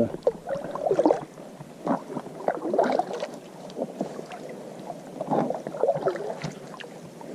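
Kayak paddle strokes dipping into river water, a splash roughly every second or so.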